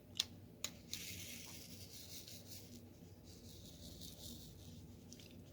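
Diamond-painting handwork: two light clicks of the drill pen on the canvas, then a soft rubbing hiss that slowly fades.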